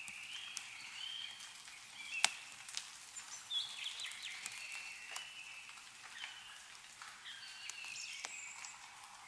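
Several small birds singing and chirping in short overlapping high phrases, with scattered sharp ticks of meltwater dripping from snowy trees; the loudest tick comes about two seconds in.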